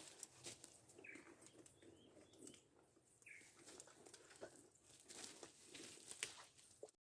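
Faint rustling and clicking of things being handled, with a bird giving a short falling chirp twice. The sound cuts out abruptly near the end.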